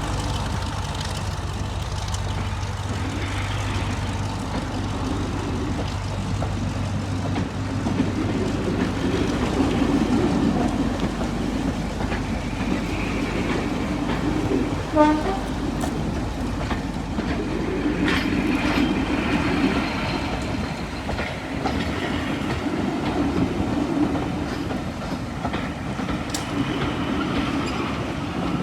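A diesel-hauled train running on the track, its wheels clattering over the rail joints. A steady engine hum fades out about seven seconds in, and a brief rising squeal comes about halfway through.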